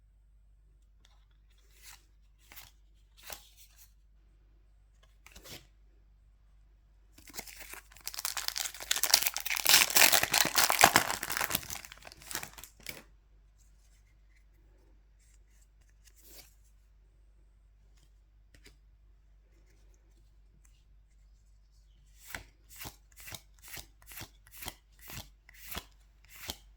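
A foil Pokémon booster pack being torn open: about six seconds of loud ripping and crinkling, with a few light clicks before it. Near the end comes a quick run of about ten crisp snaps, two or three a second.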